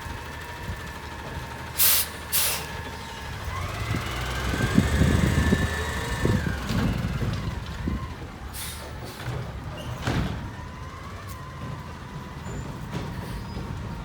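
Front-load garbage truck with a Curotto-Can cart arm running with a steady whine. Short sharp air hisses come twice about two seconds in. The engine then revs up with a rising whine for a few seconds, as the truck does to power the arm, and two more hisses follow near 9 and 10 seconds.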